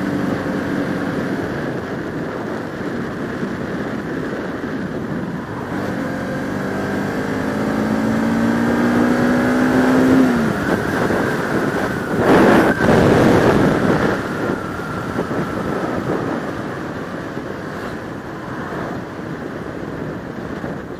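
Bajaj Pulsar RS200 single-cylinder motorcycle engine under way, its note rising steadily as it accelerates from about six seconds in, then dropping sharply at a gear change about ten seconds in. A loud rush of wind noise lasts about two seconds soon after.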